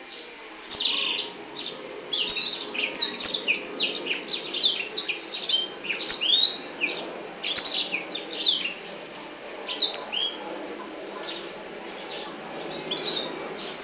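A black-throated canary (blackthroat) sings a long, fast song of rapid chirps and sweeping whistled notes, in dense bursts that thin out and grow fainter near the end. A few sharp clicks come in between.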